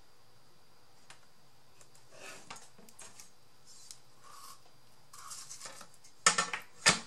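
Craft tools and paper being handled on a tabletop while measuring and marking: light rustling and small clicks, then two sharp clacks near the end.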